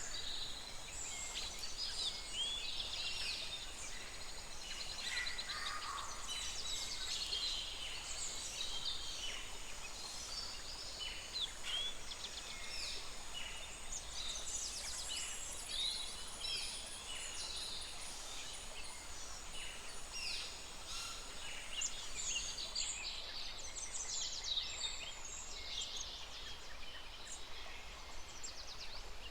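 A flock of birds chirping and calling at once: a dense, continuous chorus of short, high-pitched chirps and quick falling notes.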